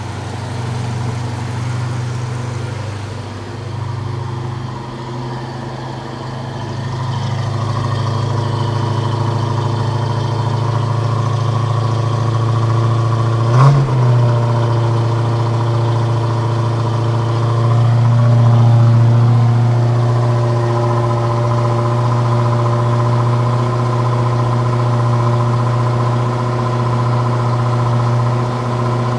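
1979 Pontiac Trans Am's V8 idling steadily just after a cold start, with a brief sharp sound about halfway through.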